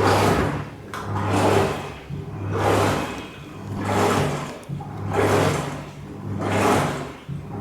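LG WF-421SPC fully automatic top-loading washing machine agitating through a wash: water swishes in regular surges about every 1.3 seconds, with the motor's low hum starting and stopping between them.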